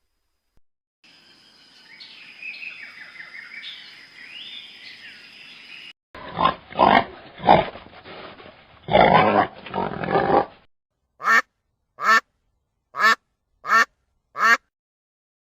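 Animal calls in three separate clips: high chirping over a steady high tone, then several loud rough calls, then five short, evenly spaced calls.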